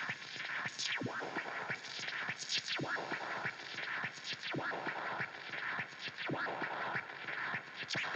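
Tape echo effect making weird noises on its own, with the guitar strings untouched: a steady hiss crossed by repeated quick falling sweeps that sound like scratching.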